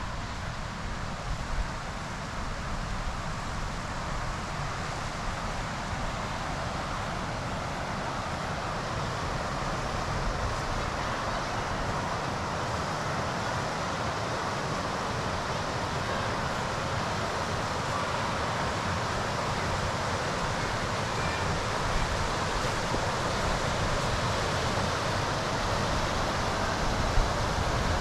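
Wind buffeting the microphone over a steady rushing noise, growing slowly louder.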